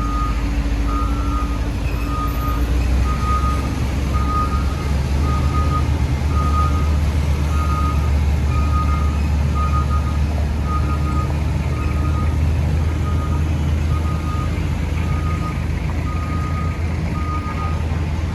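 A heavy construction machine's reversing alarm beeping about once a second, with the steady low rumble of its diesel engine underneath.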